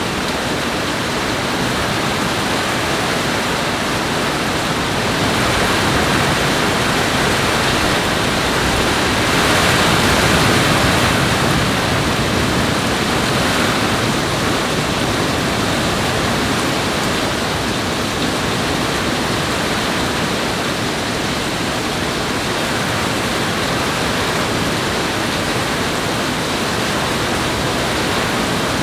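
Steady, loud rush of water in a heavy rainstorm, swelling slightly about ten seconds in.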